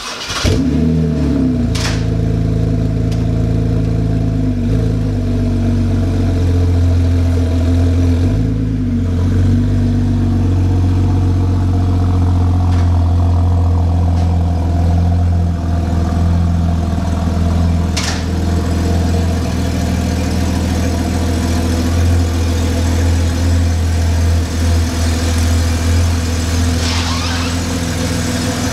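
BMW E90 330i's inline-six with a muffler delete, started warm: it catches at once with a short flare, then runs steadily at idle and low speed as the car moves off. Two sharp clicks cut through, early on and about midway.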